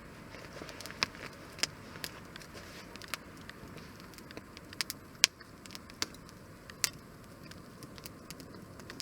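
Wood fire burning in a fire grill, crackling with irregular sharp pops over a steady soft hiss. The loudest pop comes about five seconds in.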